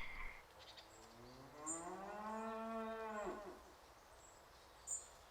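A cow mooing: one long call of about two and a half seconds that rises in pitch, holds, and drops off at the end. Short high bird chirps come and go, the loudest one near the end.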